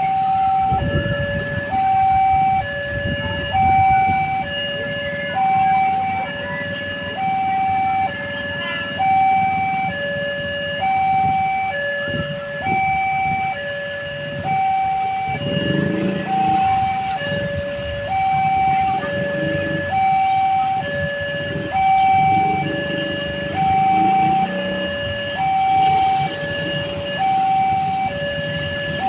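Railroad level-crossing alarm sounding its two-tone electronic warning, a high note and a lower note alternating steadily about once a second each. It warns of an approaching train. Underneath is a low rumble of road vehicles.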